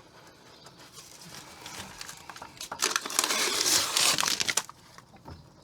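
Backing paper of a self-adhesive sound-deadening sheet crinkling and tearing, loudest for about two seconds in the middle.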